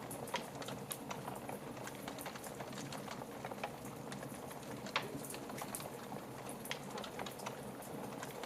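Wood fire in a fireplace crackling: a steady low rush dotted with many small pops and snaps, with one louder pop about five seconds in.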